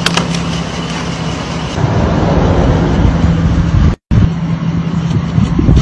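Motor vehicle on the move: a steady engine hum over road and wind noise. It drops out for a split second about four seconds in.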